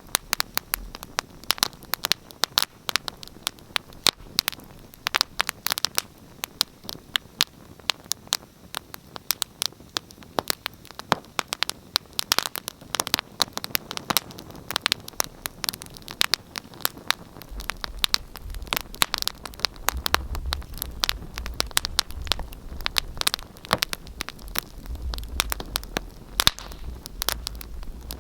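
Fire in a fireplace crackling, with dense, irregular sharp pops and snaps. A low rumble joins in a little past halfway.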